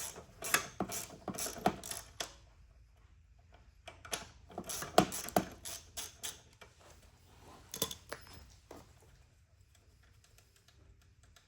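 Hand ratchet wrench clicking in short runs of rapid clicks with pauses between them, turning a bolt on an ATV's front suspension.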